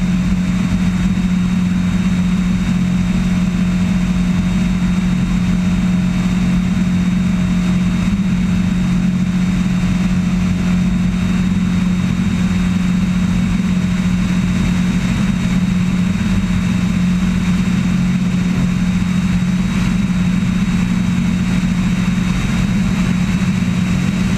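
Cessna 172XP's engine and propeller running steadily at constant power, a loud even drone with a strong steady hum.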